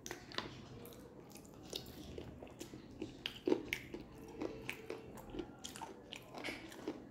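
Close-up eating sounds: a person biting meat off a piece of mutton on the bone and chewing, with many short, irregularly spaced mouth clicks.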